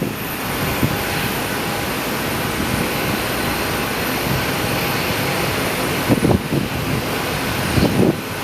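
Steady aircraft engine noise, with gusts of strong wind buffeting the microphone about six seconds in and again near the end.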